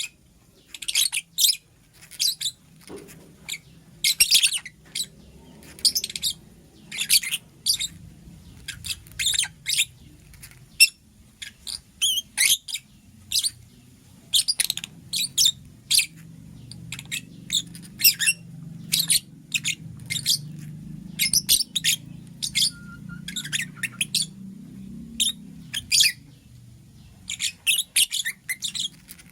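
Lovebird chirping: short, sharp, high-pitched chirps in quick irregular runs, several a second at times, with brief pauses between runs.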